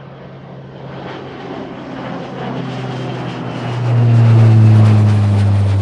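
Aircraft engine noise of a plane passing close, swelling steadily over a low steady hum and at its loudest from about four seconds in.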